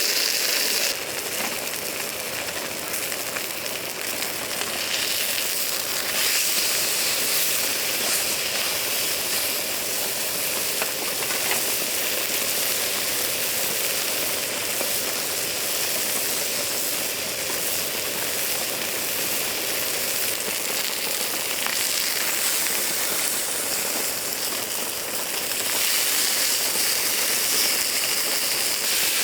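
Steady hiss of falling rain with faint scattered drop ticks.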